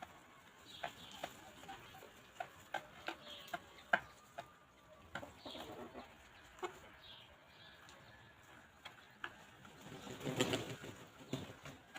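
Free-range chickens pecking, many short sharp taps scattered irregularly, with a few brief high chirps and soft bird calls between them. A louder, fuller burst of sound comes about ten seconds in.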